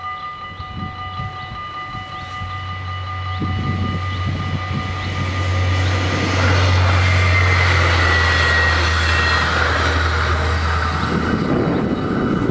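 Dutch level-crossing bells ringing fast and stopping about five seconds in, as a diesel passenger train approaches and runs through the crossing. The train's engine and wheel rumble builds to its loudest midway, with a brief high wheel squeal, and eases near the end as the train clears.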